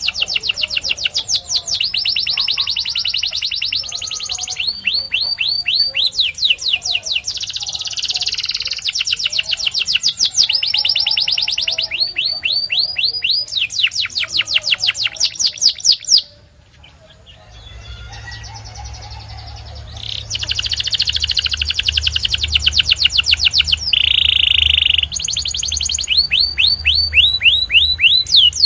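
White domestic canary singing: long rolls of rapid repeated trilled notes, each roll at a steady pace, with a break about two-thirds of the way through before the song resumes, including a short held whistle-like tone near the end.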